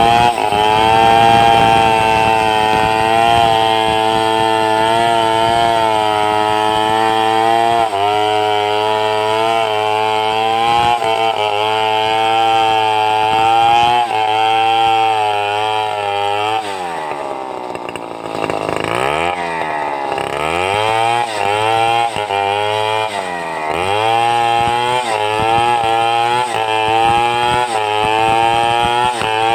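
Chainsaw running at high revs under load as it rips lengthwise through timber to make boards, its pitch wavering in the cut. Partway through, the engine drops in speed and swings down and back up several times before settling back into the cut.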